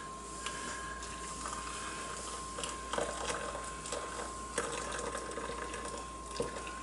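Hot water being poured into cups, with a few light knocks and clicks from handling the cups and pouch. A faint steady high whine runs underneath.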